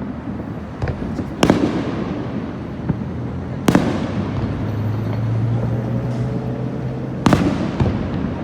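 Aerial fireworks shells bursting overhead: three loud, sharp bangs with a few fainter pops between them, over a steady low rumble.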